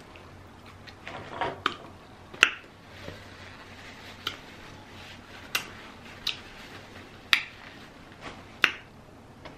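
Wet mouth smacks while chewing a mouthful of seafood: about seven sharp clicks at irregular intervals.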